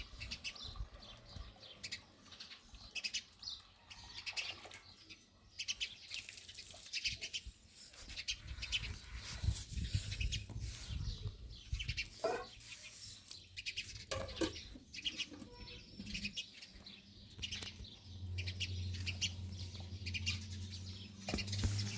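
Small birds chirping on and off, faint, with a steady low hum coming in near the end.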